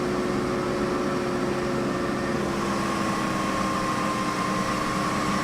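Truck running, heard from inside the cab: a steady even drone with a low hum. A higher steady whine comes in about three seconds in.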